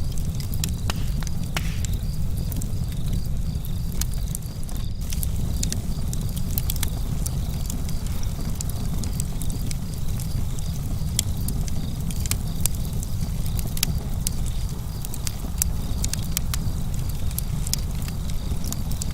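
Campfire burning, with frequent sharp crackles and pops at irregular intervals over a steady low rumble.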